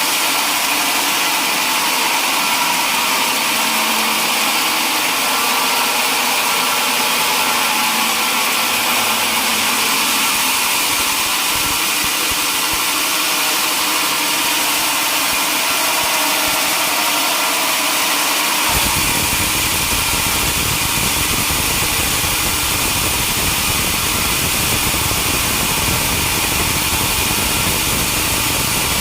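Sawmill machinery running steadily with an engine note. About two-thirds of the way through, a deeper low rumble suddenly sets in and continues.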